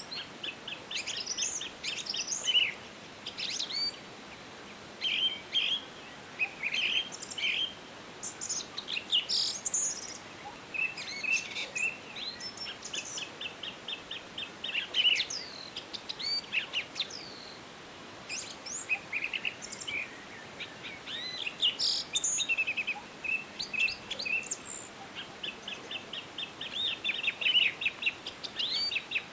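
Several songbirds singing and calling over one another, with quick chirps, short whistled phrases and fast trills of rapidly repeated notes, over a faint steady hiss.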